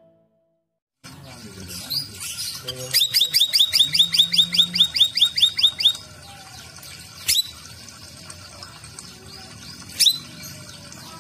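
Cucak rawis (burung bayeman) singing: a fast run of repeated high, down-slurred notes, about five a second for some three seconds, followed by single sharp high calls a few seconds apart.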